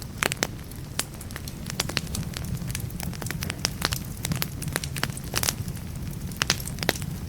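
Firewood burning in a fireplace: irregular sharp crackles and pops over a low, steady rumble of the flames.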